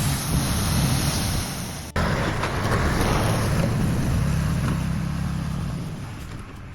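Heavy vehicle engine running steadily, with an abrupt break about two seconds in.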